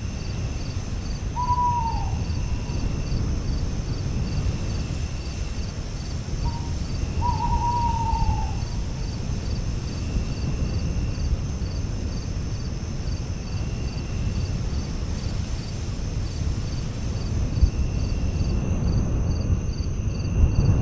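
Night ambience: crickets chirping in a steady, even rhythm with a continuous high insect trill, over a low rumble of breeze. A bird gives a short falling call twice, about a second and a half in and again about seven seconds in.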